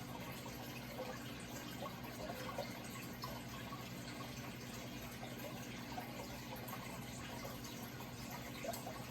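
Running water trickling steadily, with small scattered bubbling drips, over a steady low hum.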